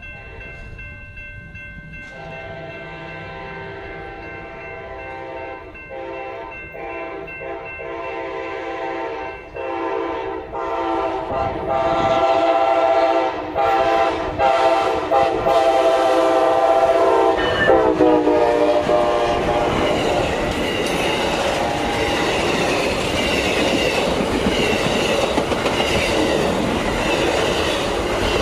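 Amtrak train horn sounding several blasts as the train approaches the grade crossing, growing louder; its chord drops in pitch at about 18 seconds as the locomotive passes. The train's cars then roll by over the crossing with a loud steady rumble and clickety-clack of wheels on rail joints.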